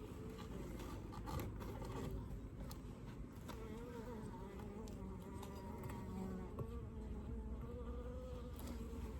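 Honeybees buzzing around an opened Layens horizontal hive, with individual bees flying close past the microphone so that the drone wavers up and down in pitch. A few light clicks sound through it.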